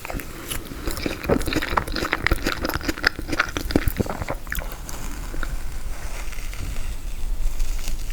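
Close-miked biting and chewing of frozen tiramisu: a dense run of crunchy crackles for the first few seconds, then softer chewing.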